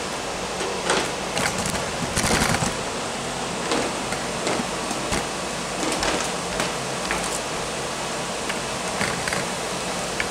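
Sliced peppers and onions sizzling in a skillet over a gas burner: a steady hiss with scattered short clicks.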